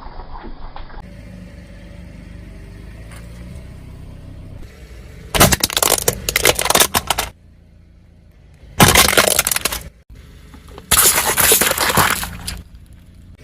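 Car tyre rolling over and crushing brittle objects: three loud spells of crunching and crackling, each one to two seconds long, with the car's low steady hum before and between them.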